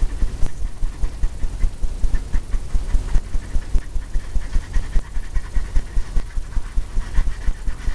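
A blender brush working wet oil paint on a stretched canvas in quick, even thumping strokes, about four or five a second, with the canvas drumming under each stroke as the edges of the beach are softened.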